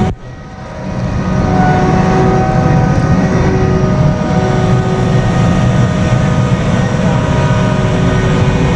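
Large farm vehicle's diesel engine running steadily under way, with a constant drone and whine; the sound dips sharply at the very start and builds back up within about a second.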